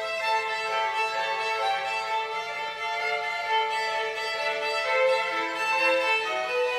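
Violin playing a melody of sustained bowed notes.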